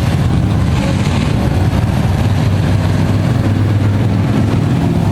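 Engines of a field of Thunder Truck race trucks running together in a steady low rumble, before the start of the race.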